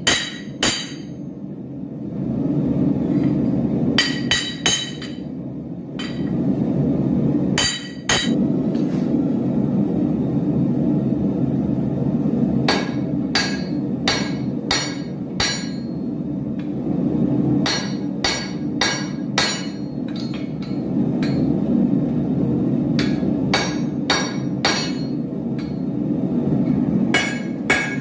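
Hammer blows on steel at an anvil while forging a short sword blade, struck in groups of a few blows with pauses between, each blow ringing briefly. A steady low rumble runs underneath.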